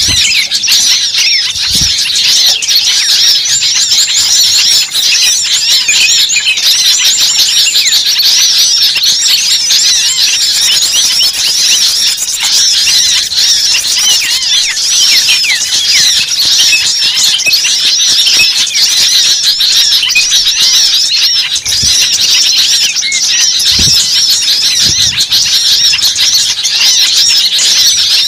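Many birds chirping and squeaking at once in a dense, unbroken chorus of short high calls overlapping one another.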